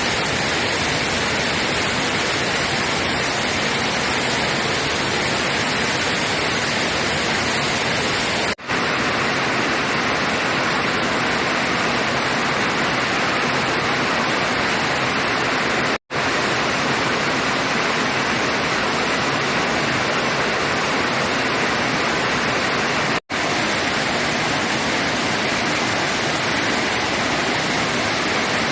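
Steady loud rush of flowing floodwater, cut off briefly three times.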